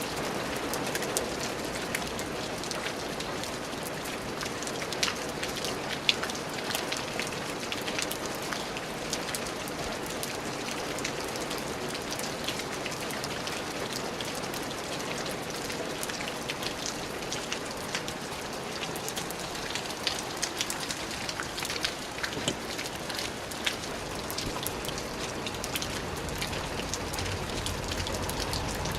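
Steady rain falling on a surface, a constant hiss with many close individual drop ticks.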